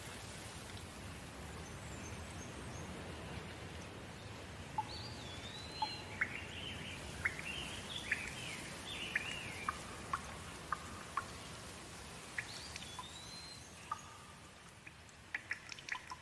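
Steady hiss of rain with a bird singing a run of whistled, sweeping notes and short chirps through the middle. Near the end the rain hiss fades down and close, sharp drips take over.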